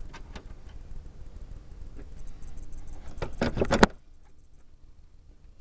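Metal hand tools clinking and rattling during handling, with a burst of clattering about three seconds in that ends in one sharp clack, then quieter.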